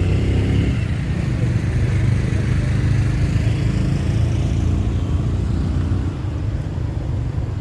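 Steady low rumble of a motor vehicle running close by, with a faint whine that dips and then rises in pitch over the first few seconds.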